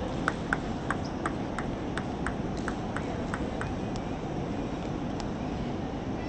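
Table tennis ball clicking off bats and table in a rally, about three sharp clicks a second, stopping after about three and a half seconds, over steady arena background noise.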